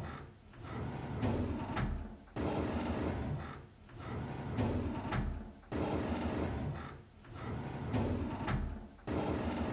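A drawer sliding open, over and over. Each pull starts suddenly with a rumbling slide that fades, and it repeats about every three and a half seconds, about three times.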